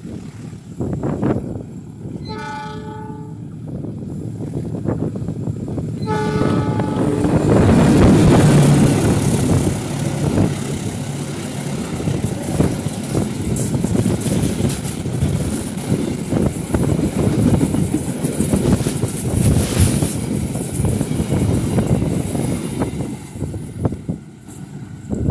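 Diesel-hauled passenger train sounding a multi-tone horn in two blasts about a second long each. The locomotive then passes close by, loudest as it goes past, followed by a long run of carriage wheels rumbling and clicking over the rails that fades near the end.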